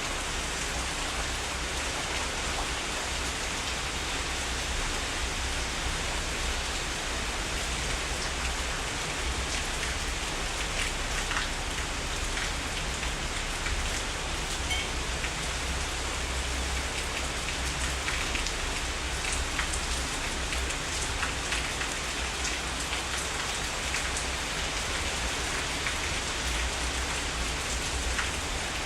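Heavy rain falling steadily on surfaces, a dense even hiss with individual drops ticking here and there and a low steady rumble underneath.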